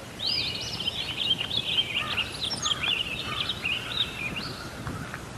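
Several small birds chirping and twittering in quick, wavering phrases over a steady rushing background noise.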